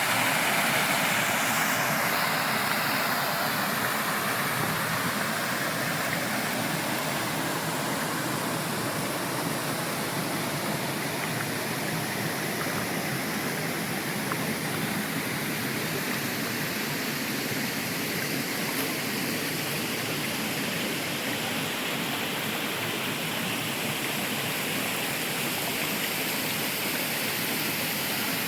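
Steady rush of falling water from a waterfall or creek, slightly louder in the first few seconds and then even.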